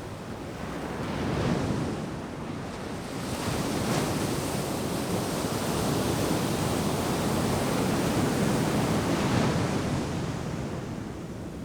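Ocean surf breaking and washing up a sandy beach, a steady rush that swells and eases as waves come in, with some wind on the microphone.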